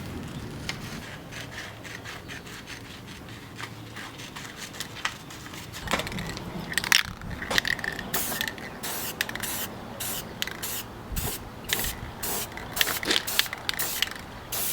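A hand tool scraping in repeated short strokes, about two or three a second, starting about six seconds in after a steady hiss.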